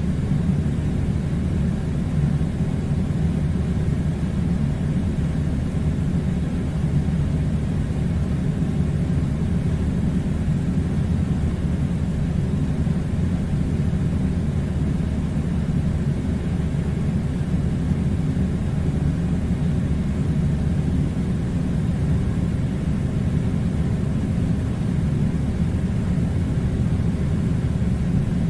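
Steady low rumbling noise with no breaks or changes.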